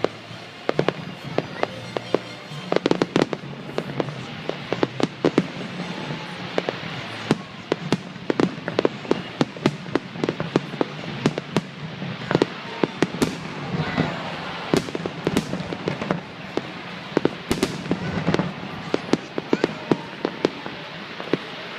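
Fireworks display: a dense, irregular run of sharp bangs and crackling reports, many coming in quick volleys.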